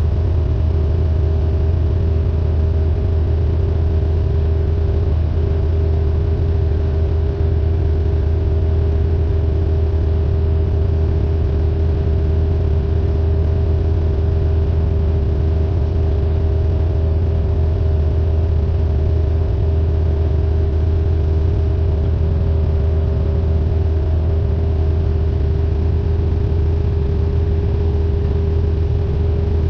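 Cessna 172N's four-cylinder Lycoming O-320 piston engine and propeller running in flight, a loud, steady drone with a deep hum that holds level throughout.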